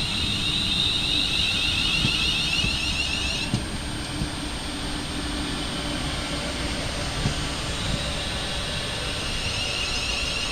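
Train running at the station: a low rumble throughout, with a high-pitched whine that cuts off suddenly about three and a half seconds in and comes back near the end.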